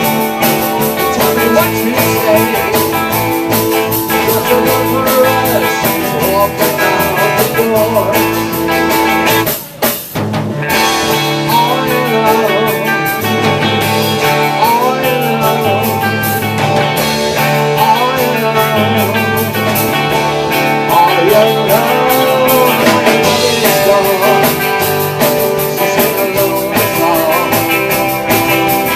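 Rock band playing live, with a blues-rock electric guitar lead bending notes over the band. The sound drops out briefly about ten seconds in.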